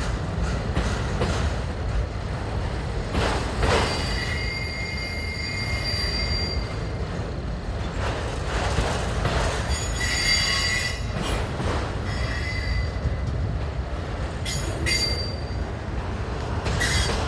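Freight train cars rolling past with a steady low rumble of wheels on rail, broken several times by high-pitched wheel squeals and a few clanks.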